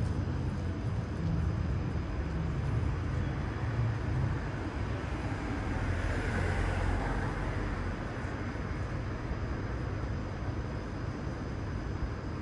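Steady low rumble of street traffic, with a vehicle passing about halfway through.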